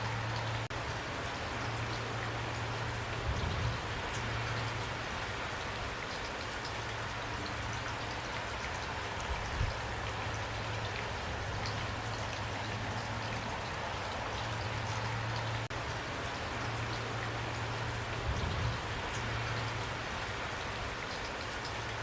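Steady rain, a dense even hiss of falling drops. A low steady hum runs underneath, and three soft low thumps sound at intervals.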